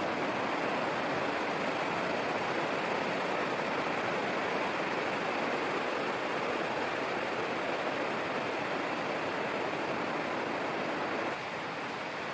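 Steady rushing of flowing water, an even roar with no distinct splashes, which drops off sharply about eleven seconds in.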